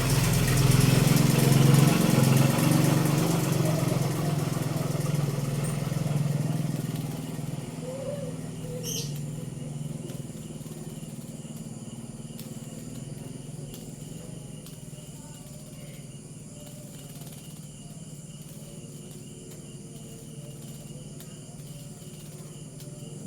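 A motor vehicle's engine, loud at first and fading away over about seven seconds as it passes. It gives way to a steady chirring of night insects.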